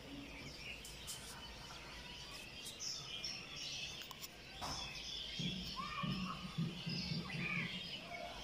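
Budgerigars chirping and warbling in short, scattered high calls. A low rumble comes in about halfway through for a couple of seconds.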